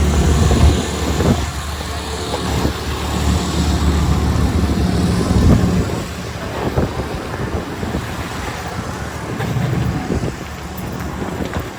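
Motor vehicle traffic on a snowy city street: engine rumble and road noise from passing cars and trucks, heaviest in the first second and swelling again a few times.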